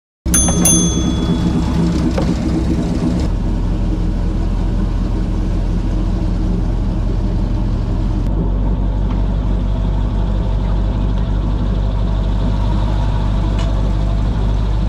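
Airboat engine and propeller running in a steady drone, with a short bell-like ding about half a second in.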